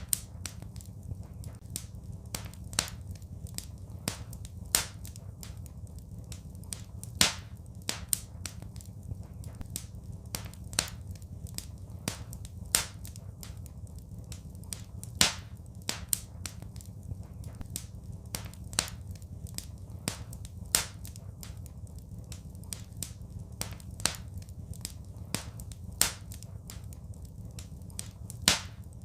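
Wood fire crackling: sharp pops and snaps at irregular intervals, a few much louder than the rest, over a steady low rumble.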